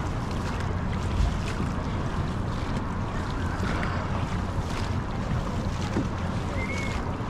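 Wind buffeting the microphone over water washing around a dragon boat on the river, a steady rushing noise with a low rumble.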